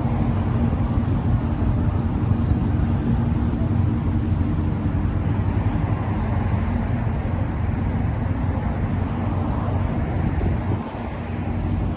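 A car running steadily while driving, its engine hum mixed with road noise, dipping in level briefly near the end.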